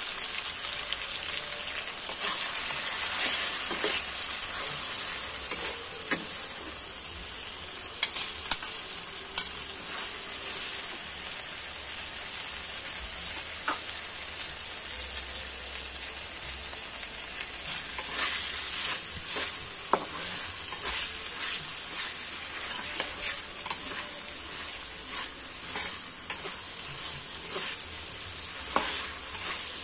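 Chopped spring onions and seasoning, with chicken pieces after about halfway, sizzling steadily in oil in a wok. A steel spatula scrapes and clicks against the wok again and again as the food is stirred.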